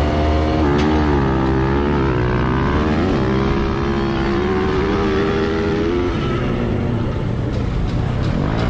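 Dirt bike engine revving, its pitch rising and falling repeatedly over the first six seconds, then running more steadily.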